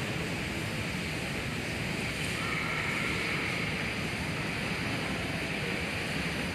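Steady rushing background noise of an airport terminal, with a faint held tone near the middle.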